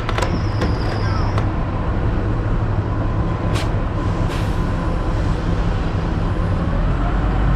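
Truck engine running with steady road noise, as from a truck on the move, with a few sharp clicks in the first second or so and two more short clicks a little past the middle.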